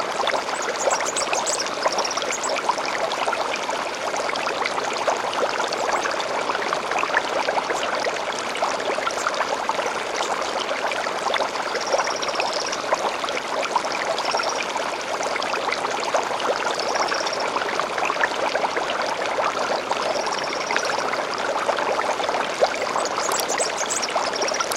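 Stream water flowing steadily with a light babbling trickle, and short high bird calls every few seconds above it.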